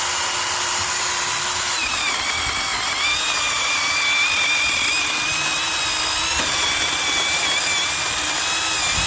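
Yovot 21-volt cordless brushless electric chainsaw running with a steady high whine, its pitch dropping about two seconds in as the chain cuts through branch wood and staying lower while it cuts.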